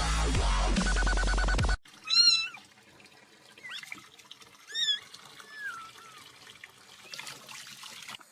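Dubstep music with a heavy bass line for a little under two seconds, cut off abruptly. A cat then meows several times in high, wavering calls, the loudest about two and three seconds in, with fainter ones after.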